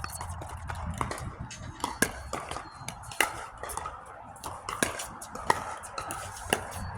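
Pickleball rally: sharp pops of paddles striking the plastic ball, irregular, the loudest about once a second, with fainter ticks of the ball bouncing in between.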